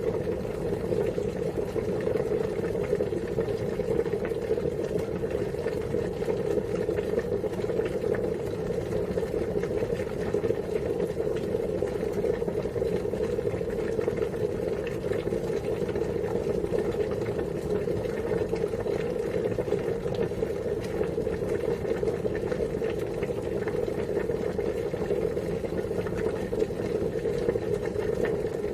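Water boiling steadily: a continuous, even bubbling that does not change.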